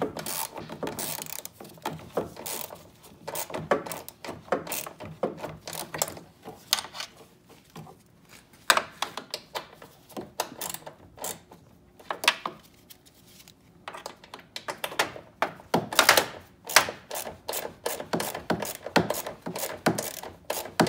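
Hand ratchet wrench clicking in runs as the grille's mounting bolts are loosened, mixed with knocks and clicks of tools and plastic trim. The clicking gets denser and faster about three-quarters of the way through.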